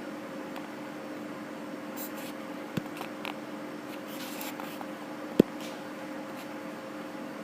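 Steady low electrical hum, like a kitchen appliance or fan running, with brief light rustling around the middle, a small click near three seconds in and a sharper, louder click about five seconds in.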